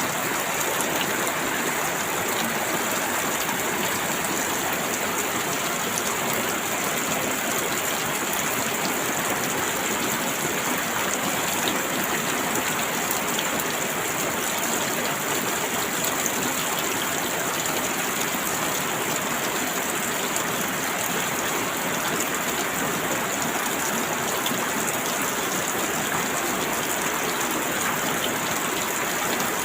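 Steady rainfall, an even hiss with fine drop patter, holding constant throughout.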